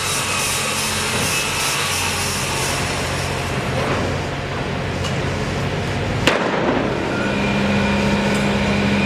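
Steady engine noise with a low hum, broken about six seconds in by a single sharp bang. A steadier, stronger drone sets in after it.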